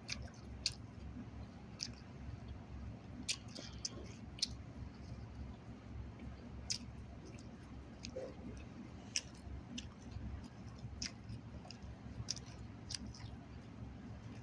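A person chewing a mouthful of chicken salad and pita bread close to the microphone, with irregular sharp mouth clicks and smacks.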